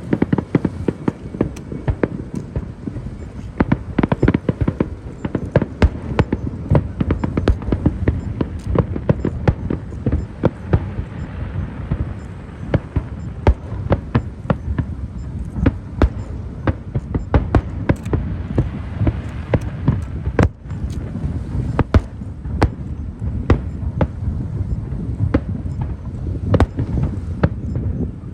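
Fireworks display: a rapid, irregular string of sharp bangs and crackles over a continuous low rumble of bursts.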